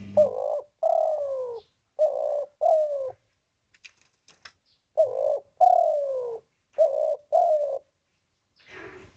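Spotted dove cooing: two calls, each a short coo, a long falling coo, then two quick short coos.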